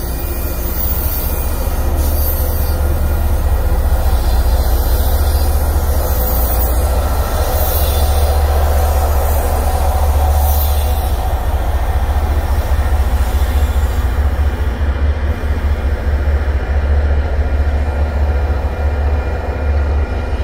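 MBTA commuter rail train rolling past at a grade crossing, its locomotive going by about ten seconds in, with a steady rumble and high wheel squeal. The high hiss and squeal die away from about fourteen seconds in as the train leaves, while a low rumble goes on.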